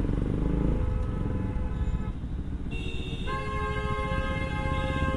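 Bajaj Pulsar NS200 single-cylinder engine running in slow traffic, under a vehicle horn that sounds as one steady tone for about two and a half seconds, starting about three seconds in.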